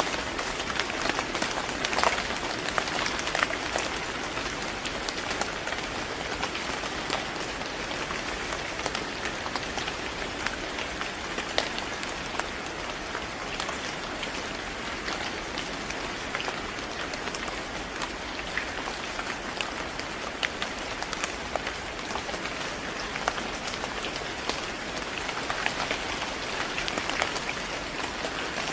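Steady rain falling on a surface, an even hiss with many individual drops ticking.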